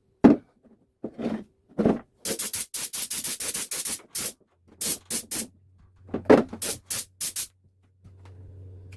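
Short hissing bursts of air in quick runs, with a low steady hum coming in about halfway, typical of a home-built air compressor made from a refrigerator compressor.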